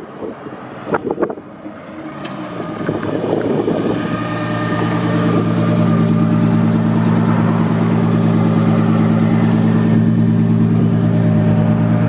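Built 2JZ straight-six in a Nissan 240SX under way, its drone building over the first few seconds and then holding at a steady cruise. A couple of sharp clicks sound about a second in.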